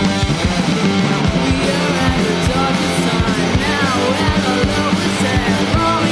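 Loud rock music in a punk style, with guitars and a steady drum beat; singing comes in about a third of the way through.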